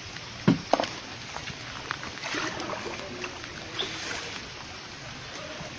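Fast-flowing floodwater rushing steadily, with two sharp knocks just under a second in.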